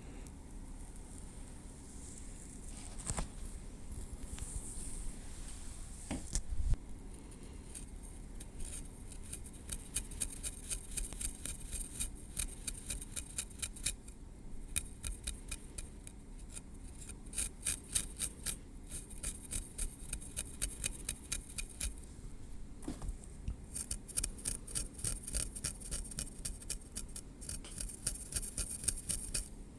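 Metal tweezers clicking in quick runs of several crisp clicks a second, broken by two short pauses. A few soft, separate knocks come in the first seconds.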